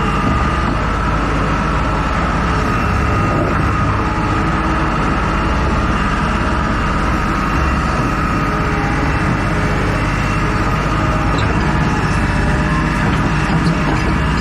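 Heavy vehicle engine running steadily, with a faint high whine held over the rumble.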